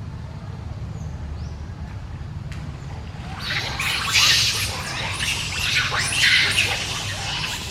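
Harsh, shrill animal screeching that breaks out about three and a half seconds in and carries on in repeated loud cries, over a low steady rumble.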